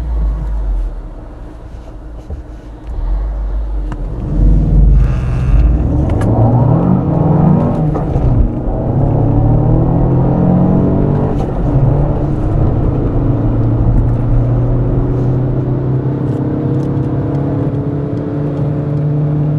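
Two car engines, a VW Golf 5 1.9 TDI diesel and a VW Polo GTI 1.8 TSI petrol, heard together from inside the cabins, accelerating hard from a standstill. Low rumble at first, then about three seconds in both pick up, their pitch rising and dropping back at each gear change before climbing slowly.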